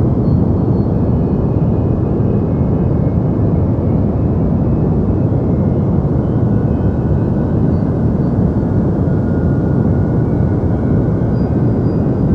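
Steady, deep white noise: an even rumbling hiss weighted toward the low end, with no change in level.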